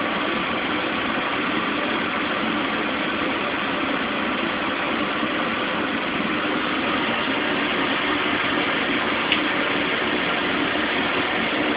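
Apartment air-conditioning blower running: a steady, even rush of air noise at a constant level.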